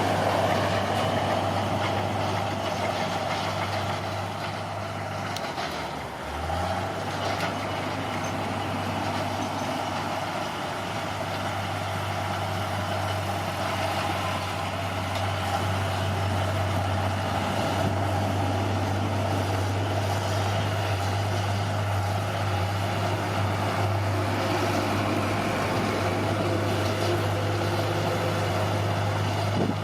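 Bulldozer's heavy diesel engine running steadily under load. About six seconds in it drops briefly and then picks back up to a steady pitch.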